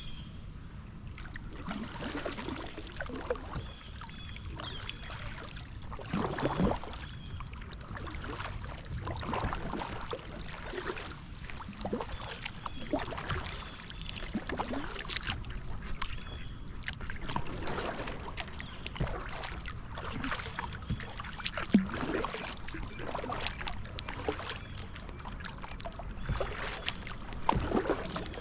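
Kayak paddle strokes dipping and pulling through shallow marsh water, with splashes and drips about every one to two seconds.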